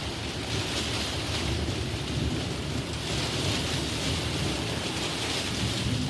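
Steady heavy rain hissing, with a low rumble of thunder underneath.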